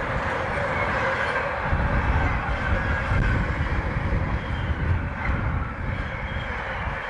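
Container wagons of an intermodal freight train rolling past, wheels running steadily over the rails, with a deeper, heavier low rumble from about two seconds in.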